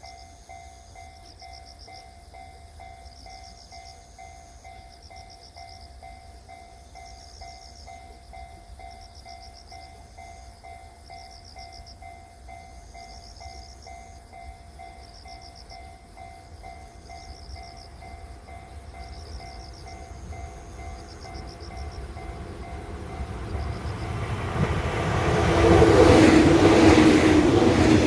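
A level crossing's warning bell rings in a steady, even pulse. In the last few seconds a Shinano Railway 115 series electric train, two sets coupled, comes up and passes: a rising rumble with rail clatter that ends loud.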